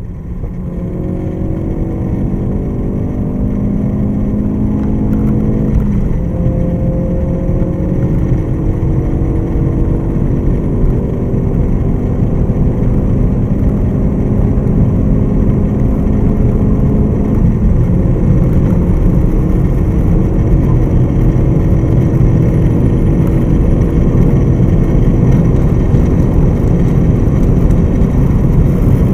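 Car engine at full throttle, heard from inside the cabin, accelerating hard at high speed. Its pitch climbs slowly in each gear and drops at two upshifts, about 6 and 18 seconds in. Heavy wind and road noise sit underneath.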